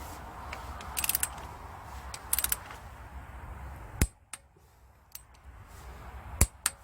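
Hand tools working on metal engine parts: two short runs of rapid clicks, then two sharp metallic knocks, the second the loudest. A low background hum stops at the first knock, about four seconds in.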